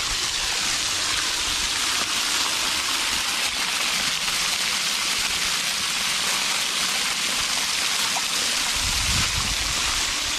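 Waterfall pouring: a steady, loud rush of falling water heard from right underneath the falls, with a brief low rumble about nine seconds in.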